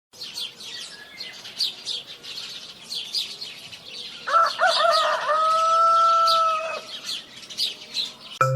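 A rooster crowing once, a long call that wavers and then holds one pitch, over steady rapid chirping of small birds.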